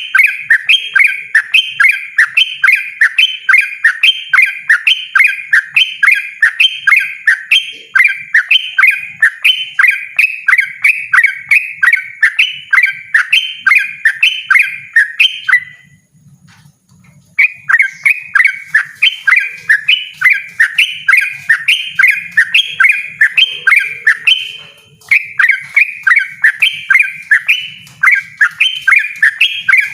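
Yellow-vented bulbul (trucukan) singing a rapid, unbroken string of short, loud, chattering notes, about two to three a second. It pauses for about a second and a half midway, then carries on.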